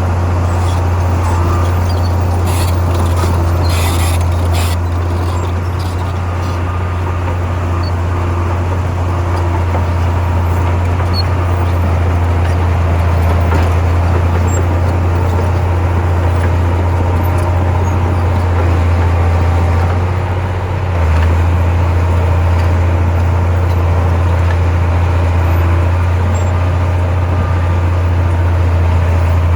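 Diesel engine of heavy earthmoving machinery running with a steady low drone, dipping briefly about two-thirds of the way through. A few sharp clicks come a few seconds in.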